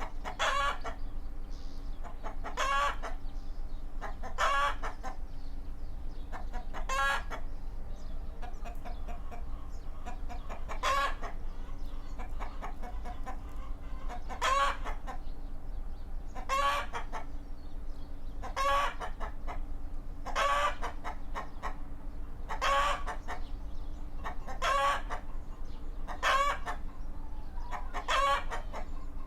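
Chicken giving short, repeated squawking calls, one about every two seconds, over a faint steady hum.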